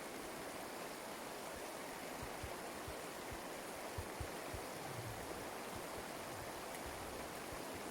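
Steady rush of running water, with a few soft low bumps in the middle.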